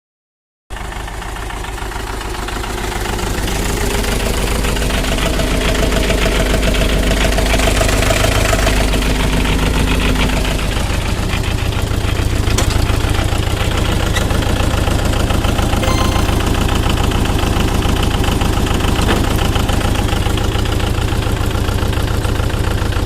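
Tractor engine running steadily with a fast, even chugging beat. It cuts in abruptly after a moment of silence and builds up over the first few seconds.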